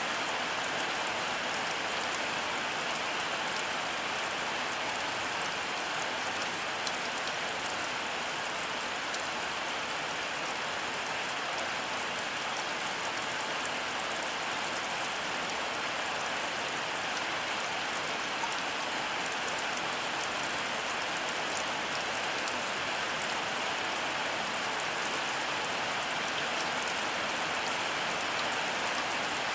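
Heavy rain falling steadily, an even, unbroken hiss of drops with scattered small individual drop hits.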